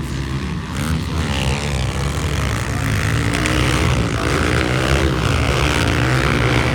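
Motocross bike engines running hard, their pitch rising and falling with the throttle.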